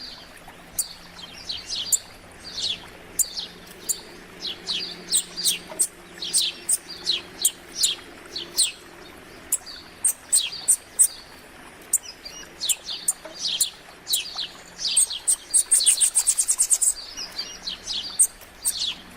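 Several small wild songbirds chirping and calling together: a dense run of short, high, mostly downward-sliding notes overlapping one another, with a fast high trill of evenly spaced notes about three-quarters of the way in.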